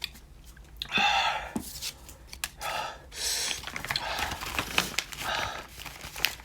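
A man panting, blowing and sucking air hard through his mouth in short bursts against the burn of ghost pepper jerky, with small clicks and rustles between the breaths.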